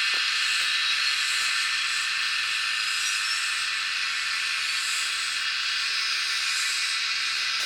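A steady high hiss with no low sound beneath it, swelling faintly every second or two.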